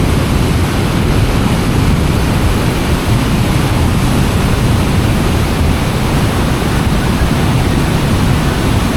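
Waterfall heard at close range: a loud, steady rush of falling water that is heaviest in the low end and does not change.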